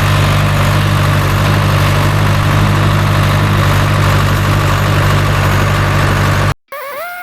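John Deere 2030 tractor engine running steadily at constant speed. It cuts off abruptly near the end, replaced by a sustained tone that rises and then holds.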